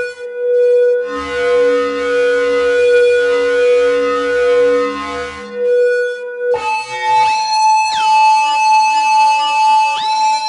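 Korg Volca Modular synthesizer holding a buzzy drone with a hiss of noise over it. About two-thirds of the way through, the pitch jumps higher. Its bright upper tones then sweep down and later back up.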